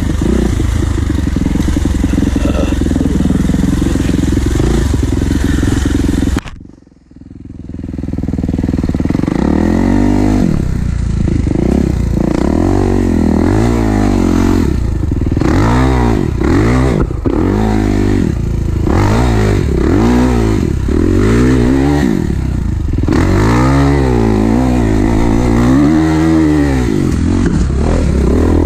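Kawasaki KX450's four-stroke single-cylinder engine running under load as the dirt bike is ridden. The sound drops away briefly about seven seconds in, then comes back as the engine revs up and down over and over, its pitch rising and falling every second or so.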